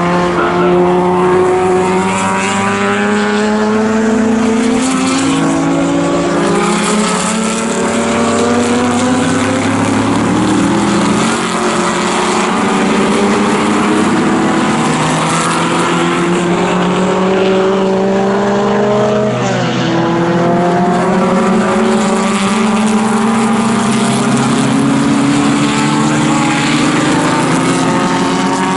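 Engines of several pre-1961 sports racing cars running hard together. Their notes overlap, each rising slowly through a gear and then dropping sharply at an upshift.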